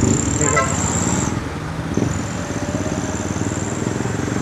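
Motorcycle engine running close by in street traffic, with a thin high-pitched whine that drops out about a second in and returns about two seconds in.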